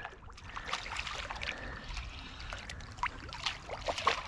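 Light splashing and trickling of creek water, with scattered small clicks and ticks throughout.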